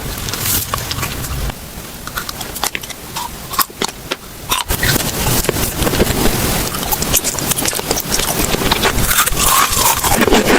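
Close-miked eating: chewing and crunching with many sharp clicks and crackles.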